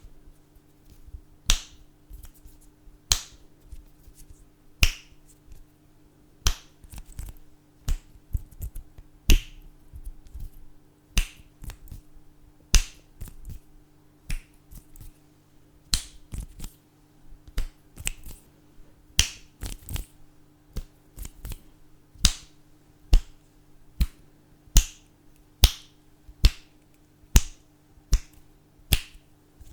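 Fingers snapping over and over for ASMR, sharp single snaps at an uneven pace of about one or two a second, over a faint steady hum.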